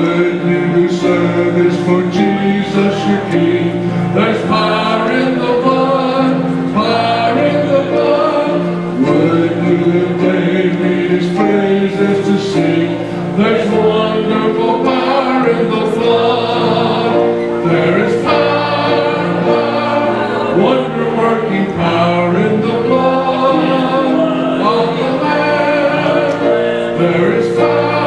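Choir singing a gospel song, sustained and continuous.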